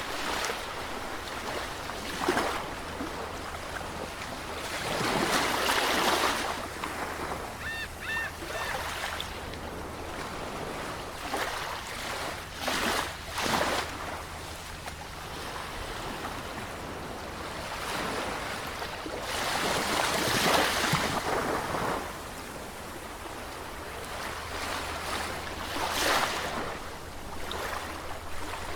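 Sea waves breaking and washing up a shore, swelling and easing every few seconds. A brief faint high chirp comes about eight seconds in.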